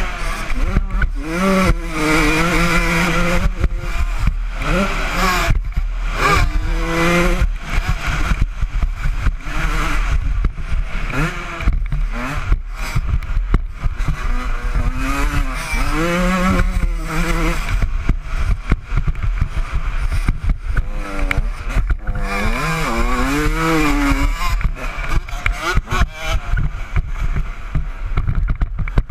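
Honda CR125 two-stroke single-cylinder motocross engine revving hard, its pitch climbing and dropping again and again as the bike is ridden around a dirt track. Heavy wind rumble and frequent knocks from the bumps sound through the microphone.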